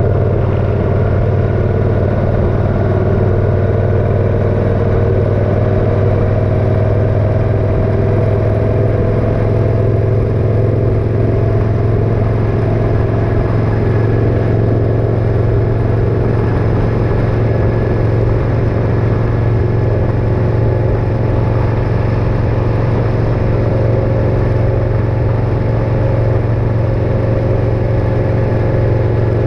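Motorcycle engine running steadily while riding, with a constant low hum and a dense wash of road and engine noise that barely changes.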